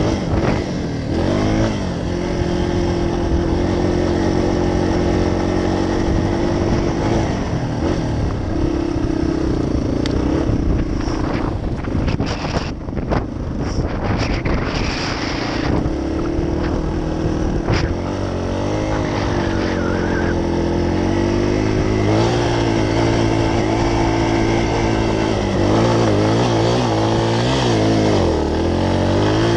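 Dirt bike engine running hard while riding in sand, the pitch rising and falling again and again as the throttle is worked and the gears change.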